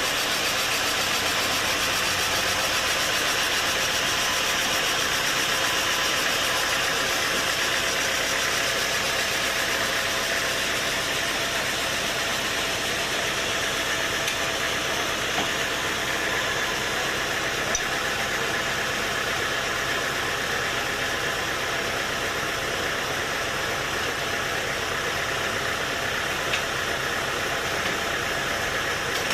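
Sawmill machinery running steadily, an even mechanical drone with a few faint ticks about halfway through and near the end.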